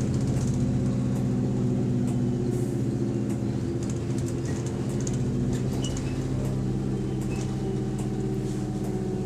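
Bus diesel engine running steadily, heard from inside the saloon, with light clicking over the top. The bus is known for a rattly idle and a clicking that follows engine revs.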